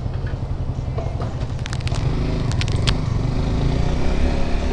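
Motorcycle engine running at low revs with a deep, continuous rumble, and a few sharp clicks in the middle.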